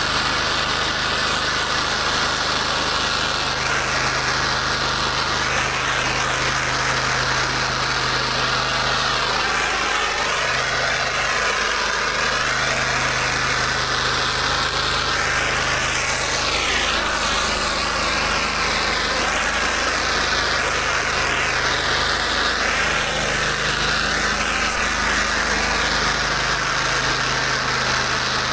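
Gas pressure washer engine running steadily under a wide hiss of high-pressure water spraying, the hiss shifting as the spray moves across the surface.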